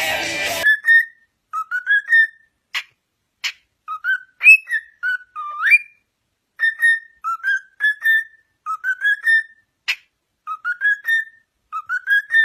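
Parrot whistling a repeated phrase of short rising notes, with a few sharp clicks between the phrases.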